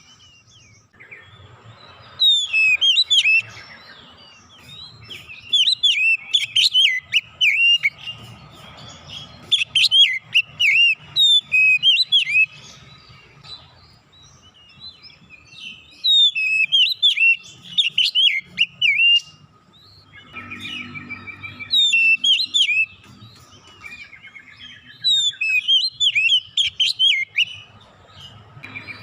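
Oriental magpie-robin (kacer) singing loud phrases of rapid, varied chirps and whistles, one to three seconds each, with short pauses between them.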